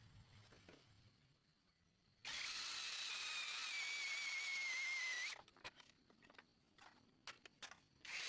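Electric drill running for about three seconds with a high whine that sags slightly in pitch, then stopping suddenly; a few light clicks and taps follow.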